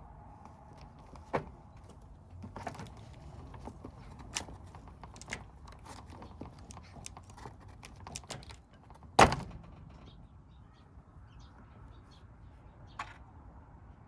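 Kittens feeding at a food dish: scattered small clicks and knocks of the dish and food, with one much louder knock about nine seconds in.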